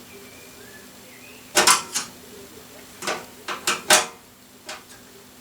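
Metal parts clinking and knocking against a steel computer case as components are handled and fitted: a cluster of sharp clacks about a second and a half in, then another run of clicks and knocks around three to four seconds in.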